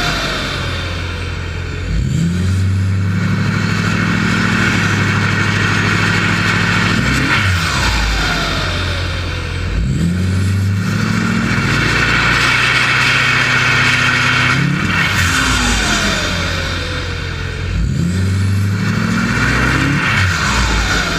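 Ford Power Stroke turbo-diesel with a straight-piped exhaust, run up again and again. Each run-up holds at high revs and ends with a falling turbo whistle as it spools down, about every eight seconds.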